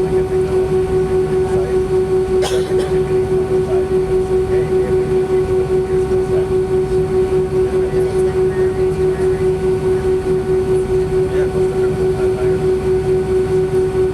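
Airbus A319 engine noise heard inside the passenger cabin: a steady droning hum with one strong held tone and a regular pulsing beat, about three beats a second.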